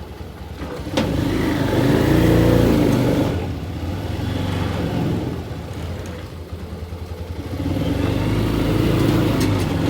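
Motor vehicle engine running and accelerating twice, its pitch rising after a sharp click about a second in and again near the end.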